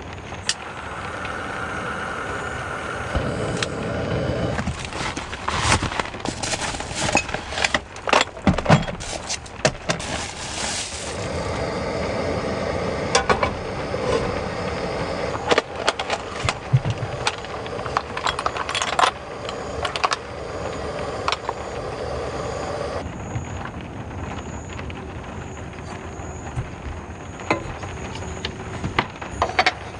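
Steady rain noise with frequent sharp clicks and knocks of things being handled.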